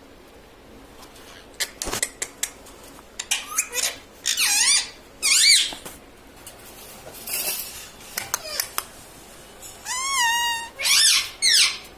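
Indian ringneck parakeet calling: a series of short, high-pitched squeaky calls with wavering pitch, after a few sharp clicks about two seconds in.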